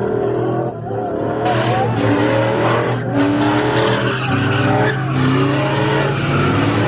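Car doing a burnout or donuts: tyres squealing with a wavering pitch over the steady drone of the engine held at high revs.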